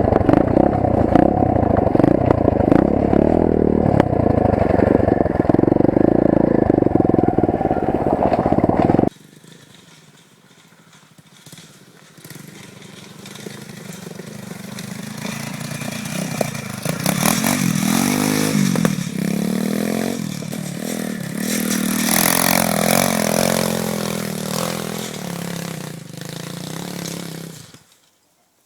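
125cc four-stroke pit bike engine heard from an on-board camera: it runs hard and loud for about nine seconds, then cuts suddenly to a quieter passage. In the quieter part the engine revs up and down repeatedly before stopping abruptly near the end.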